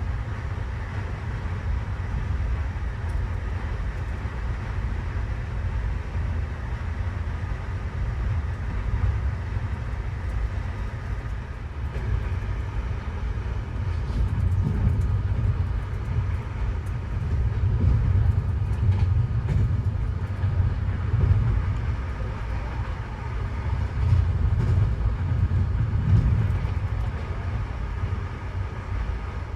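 Passenger train running along the track, a steady low rumble with faint scattered clicks in the second half.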